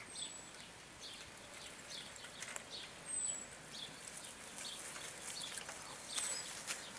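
Outdoor ambience with three short, thin, high whistles falling in pitch, about three seconds apart, over scattered small chirps and ticks, typical of birds calling.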